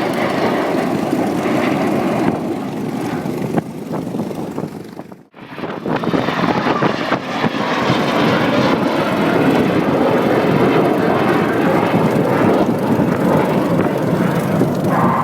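Red Arrows BAE Hawk T1 jets flying past, a steady jet roar from their Rolls-Royce Adour turbofans. The sound cuts out sharply for a moment about five seconds in, then comes back and grows louder.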